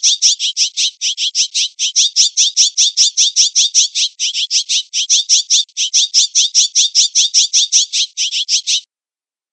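A jay calling in a fast, unbroken run of harsh, scratchy notes, about seven a second, that stops abruptly near the end.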